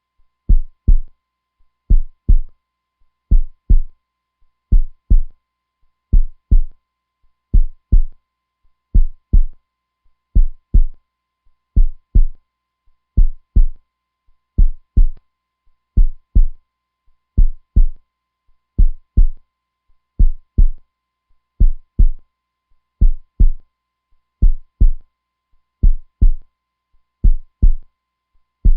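Heartbeat: a steady, slow lub-dub double thump repeating about every second and a half.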